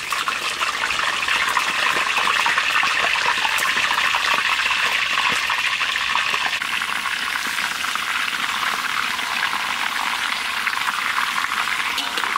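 Raw chicken legs sizzling as they fry in hot oil in a large wok, a steady hiss with fine crackling spits that builds up over the first couple of seconds as more pieces go into the oil.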